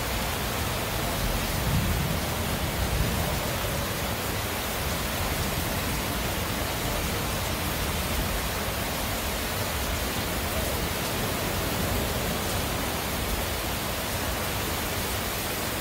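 Tropical-storm rain and wind: a steady, even hiss of heavy rain, with wind gusting low underneath.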